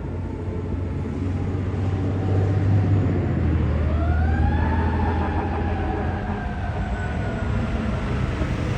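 Fire truck responding: a siren winds up about three and a half seconds in, then slowly winds down, over the steady deep rumble of the truck's engine.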